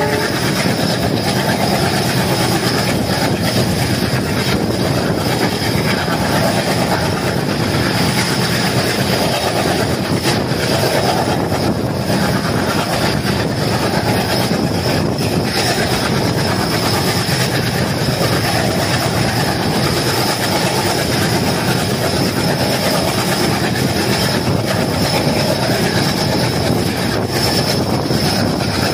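Passenger coach running at speed behind a diesel locomotive: a steady rumble of wheels on rails mixed with rushing wind, heard from the open coach window, with a thin steady high whine over it.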